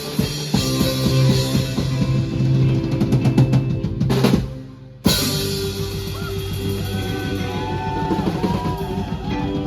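Rock band playing, with drum kit (bass drum and snare) over sustained bass and guitar notes. About five seconds in the music fades away for a moment, then the full band comes straight back in.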